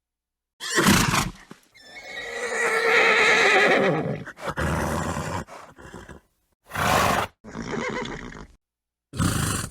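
A horse neighing: a long wavering whinny from about two seconds in, among short noisy snorts. The sounds come in separate bursts with gaps of dead silence between them.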